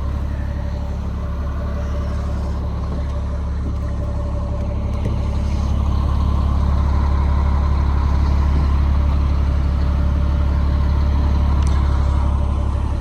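Caterpillar C7 diesel engine of a Peterbilt 335 truck idling, a steady low drone that grows a little louder about halfway through.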